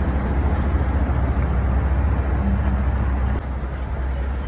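Steady low rumble of a vehicle in motion, heard from inside; the rumble eases a little about three and a half seconds in.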